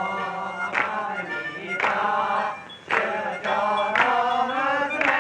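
Several voices singing a folk song together, with a sharp clap or beat about once a second keeping time for a dance.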